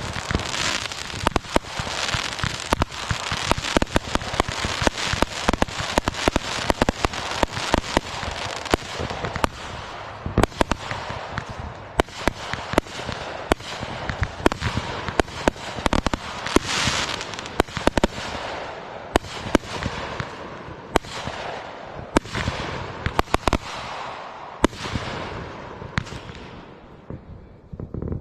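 Fireworks going off in rapid succession: many sharp bangs over a continuous crackle. The bangs thin out and the crackle fades over the last few seconds.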